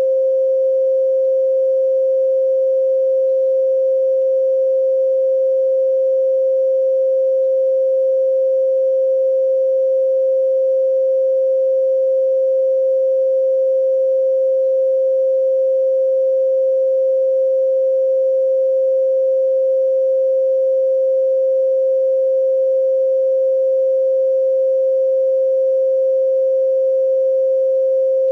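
A steady 528 Hz pure sine tone, one unbroken pitch held without change.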